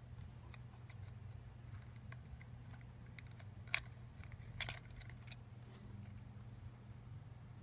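A few light clicks and taps of small hard parts being handled, the sharpest two a little under four seconds and nearly five seconds in, over a steady low hum.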